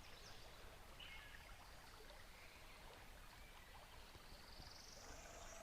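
Near silence: faint outdoor ambience, with a few faint high chirps about a second in and a faint rising buzz near the end.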